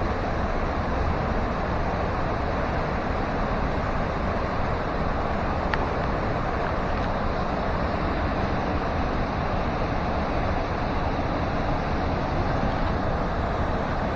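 Steady rushing roar of the Potomac River's falls and rapids, water pouring over rock.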